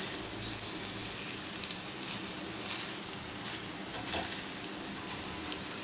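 Rice and diced vegetables sizzling steadily as they fry in a wok over full flame, stirred with a spatula that gives soft scrapes about once a second.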